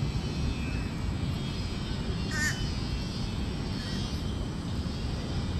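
Steady low outdoor rumble with a short bird call about two and a half seconds in.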